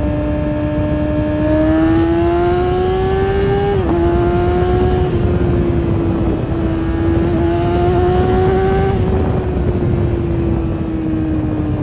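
Kawasaki ZX-6R inline-four engine running hard through its exhaust. The pitch climbs under throttle, drops sharply at a gear change about four seconds in, climbs again, then falls slowly as the revs come down, over a steady rush of noise.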